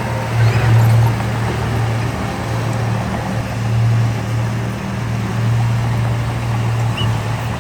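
Heavy diesel engine of earthmoving equipment running with a steady low hum that swells and eases a little under load.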